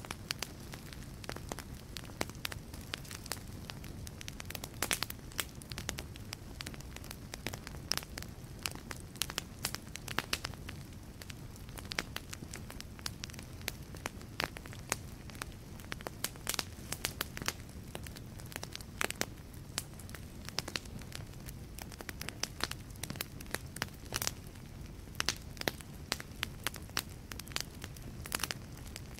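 Wood fire burning in a fireplace, crackling: frequent irregular sharp pops and snaps from the burning logs over a low, steady rumble of the flames.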